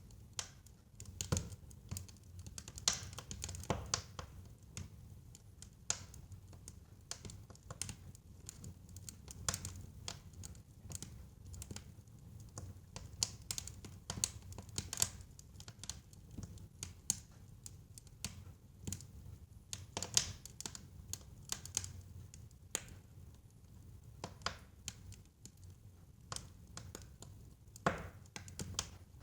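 Wood fire burning in a fireplace: irregular crackles and sharp pops from the burning logs over a low, steady rumble of the flames.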